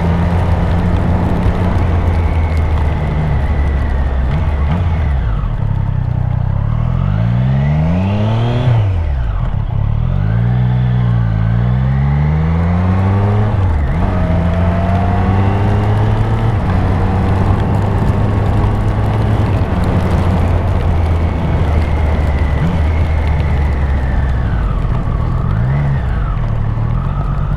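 Triumph Street Triple RS inline-three engine running under load while the motorcycle is ridden, holding steady revs for long stretches. The revs swing up and down several times between about eight and fourteen seconds in, and once more near the end, as it is shifted and throttled through corners.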